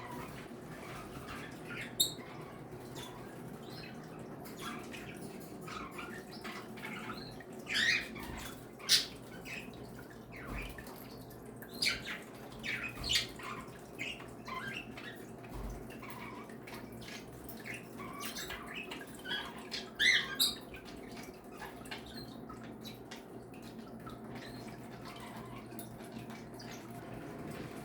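A mixed flock of pet birds (budgies, cockatiels, Bourke's parakeets and finches) giving scattered short chirps and calls, with a few louder calls standing out, over a steady low background hum.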